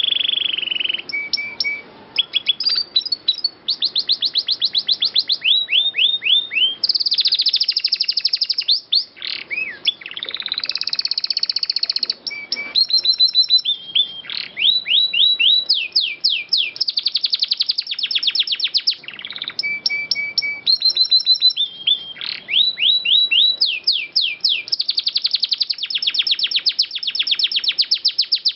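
Domestic canary singing a long song of rapid trills and rolls. Fast runs of repeated notes follow one another with only brief breaks.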